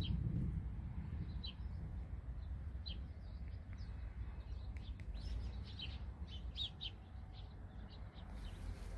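Small songbirds chirping in short, scattered calls over a steady low rumble of wind on the microphone.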